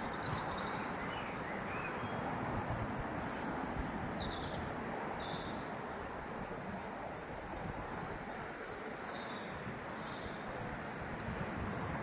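Steady outdoor background noise, like a distant traffic hum, with small birds chirping now and then in short high notes.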